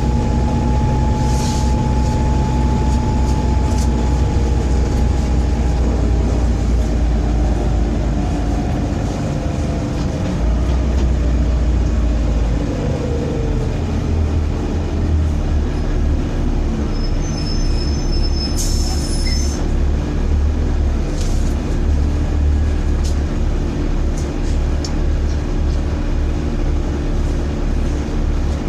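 Volvo B7TL bus's six-cylinder diesel engine heard from on board, a heavy low hum and rumble with its pitch falling away about a third of the way in as the bus slows, then a rougher low rumble. The uploader calls this bad engine vibration. A short high beep sounds about two-thirds through.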